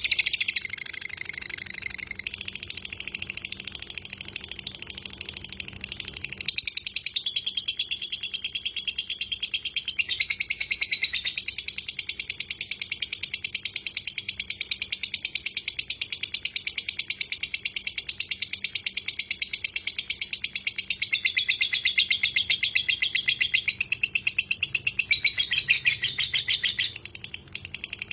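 Lovebird singing a long 'ngekek': one unbroken, very fast, high-pitched rattling chatter that shifts pitch every few seconds and breaks off briefly near the end.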